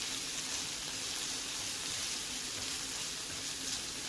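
Chopped onion, garlic and tomato with berbere sizzling in oil in a frying pan: a steady, high hiss.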